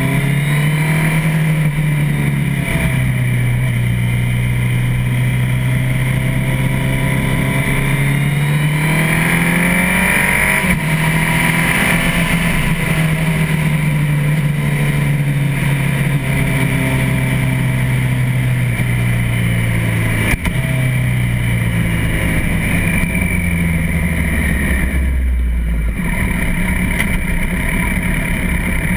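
Suzuki Hayabusa's inline-four engine running under way with the throttle changing, its pitch rising and stepping a few times. About twenty seconds in it eases off and drops low, settling toward idle near the end.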